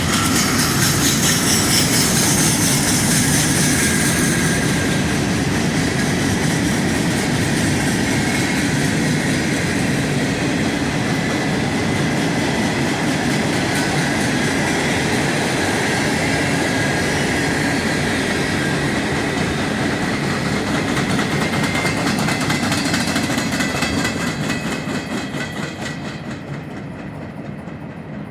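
Train cars rolling past on the rails with steady wheel clatter over the joints, fading away over the last few seconds as the train moves off.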